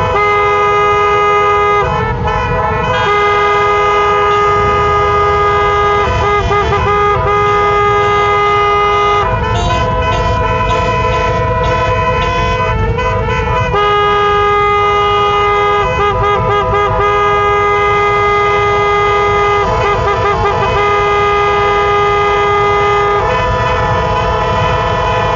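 Several vehicle horns sounding together in long held blasts that break off and start again every few seconds, over a low rumble of idling engines.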